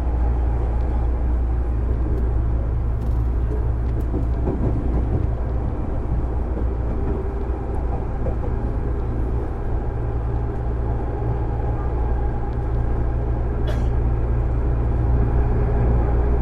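JR East 205 series electric train motor car with MT61 externally-fanned traction motors, running at a steady speed: a continuous low rumble with faint steady motor tones. One sharp click comes about 14 seconds in.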